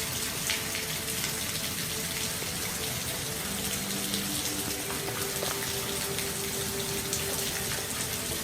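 Steady rain falling: a dense, even patter with single drops ticking out above it, and a few faint steady tones underneath.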